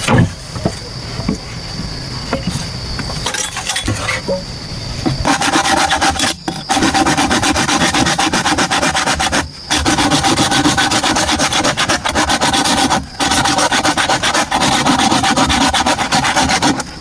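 Hand tool rasping through bamboo. It starts about five seconds in and runs in long continuous stretches broken by three brief pauses.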